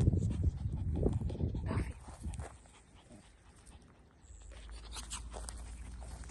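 A puppy panting rapidly close by for about the first two seconds, then it goes quiet.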